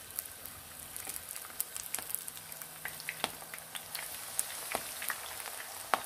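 Batter-coated kohlrabi leaves frying in hot oil in a pan: a steady sizzle with frequent crackles and pops, a few louder pops near the end.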